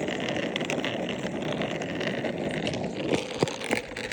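Scooter rolling along a trail: a steady rumbling rattle from the wheels and frame, with a few sharp knocks about three seconds in.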